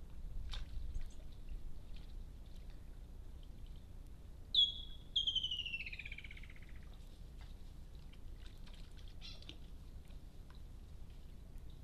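A bird calls: one short high note, then a long whistle that slides down in pitch, about five seconds in, and a few fainter short calls later. Faint splashing from warthogs wallowing in a shallow water trough, over a steady low background hum.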